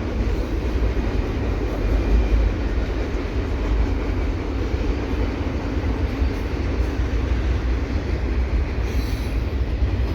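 Eastbound CPKC double-stack container freight train rolling steadily past: a continuous, heavy rumble of the cars' wheels on the rails.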